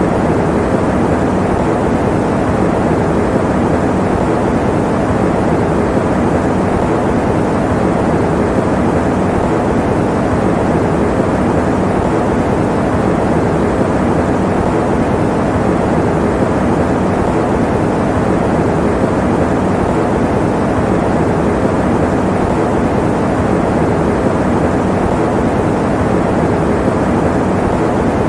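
Electric fan running steadily, a constant even whoosh of air with most of its weight in the low and middle range and no changes.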